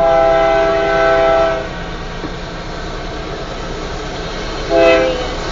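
Union Pacific diesel locomotive air horn sounding a chord in two blasts: one ending about a second and a half in, then a short blast near the end. A steady low rumble of the moving train runs underneath.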